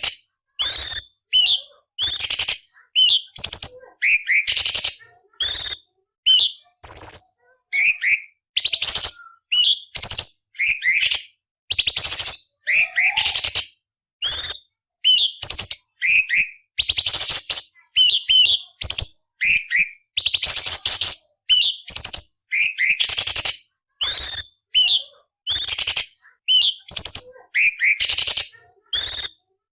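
Orange-bellied leafbird (cucak cungkok) singing a fast run of short phrases, about one to two a second with brief silences between. Sharp slurred whistled notes are mixed with harsh, scratchy rasping notes.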